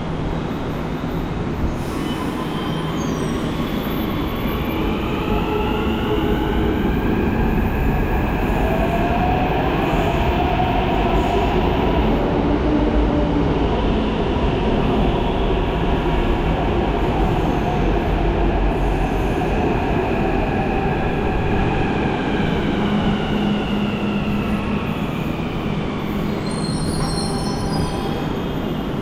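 Hyderabad Metro electric train running, its motor whine climbing in pitch and then falling back over a steady rumble.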